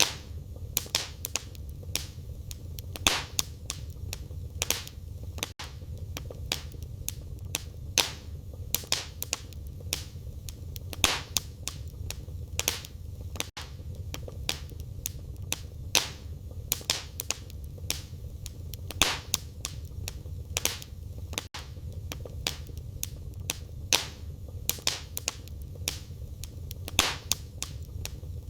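Wood fire burning in a fireplace: crackling with frequent sharp, irregular pops over a steady low rumble. Very brief dropouts come about every eight seconds.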